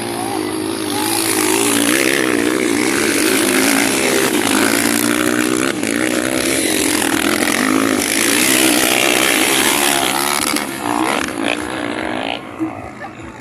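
Motocross motorcycles racing past close by, their engines revving up and down as the riders accelerate and back off. The noise builds about a second in and fades near the end.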